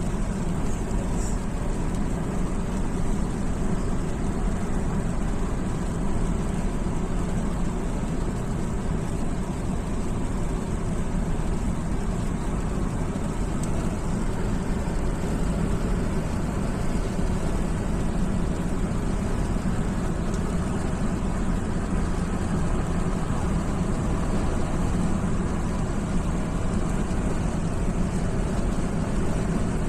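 A car driving on a rain-wet motorway: steady engine and tyre noise with no break or change.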